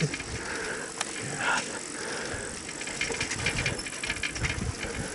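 Rattling and knocking of a vehicle being ridden, irregular clicks and low thumps with no steady engine note.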